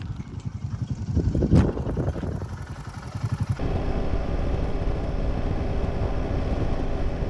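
Royal Enfield Himalayan 450's single-cylinder engine running as the motorcycle is ridden, with one sharp knock about a second and a half in. A little past halfway the sound turns abruptly steadier and louder.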